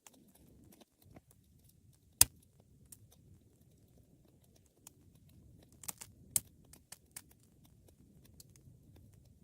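Wood fire crackling: scattered sharp pops and ticks over a low, soft rustle of the flames, with one loud pop about two seconds in and a quick cluster of pops around six seconds.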